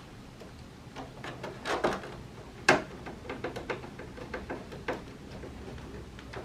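Scattered small clicks and taps of a screwdriver and hands working screws back into the plastic cover of a split air conditioner's indoor unit, with one sharp click about two and a half seconds in.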